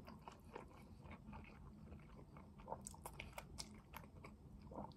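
Faint chewing of a mouthful of instant noodles, with small wet mouth clicks and a strand of noodle being slurped in.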